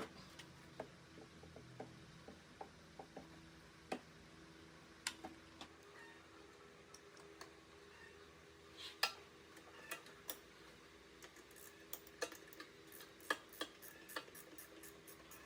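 Irregular light clicks and taps, sparse at first and more frequent in the second half, over a faint steady hum.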